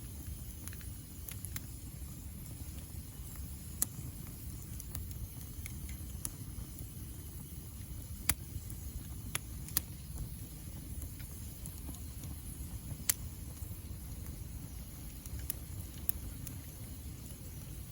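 Wood fire burning, with sharp crackles and pops every second or so over a steady low rumble.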